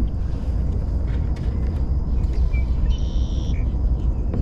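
Steady low rumble on the microphone, with a short hissing burst about three seconds in.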